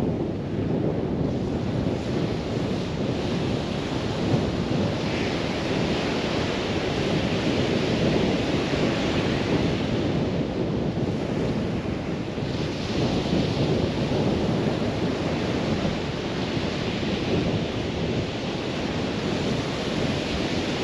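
Strong wind buffeting the microphone in a steady low rumble over surf on the beach, with a few hissing swells as waves wash in.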